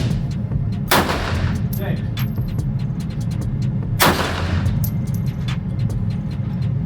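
Two loud handgun shots about three seconds apart, each ringing out in the enclosed range, with fainter shots cracking between them. A steady low rumble runs underneath.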